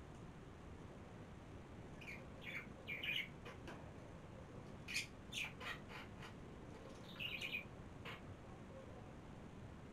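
Birds chirping: short, high calls in three quick clusters, about two, five and seven seconds in, over faint room hiss.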